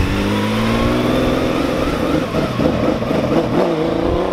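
Classic Porsche 911 engine pulling away under acceleration, its pitch climbing steadily through the revs.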